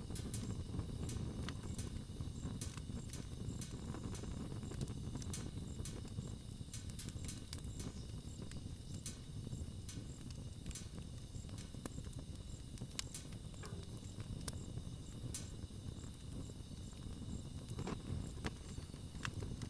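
Wood fire burning: irregular sharp crackles and snaps over a low steady rumble of the flames.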